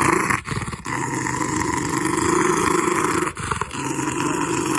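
Dog growling in long, continuous growls, broken by short pauses near the start and about two-thirds of the way through.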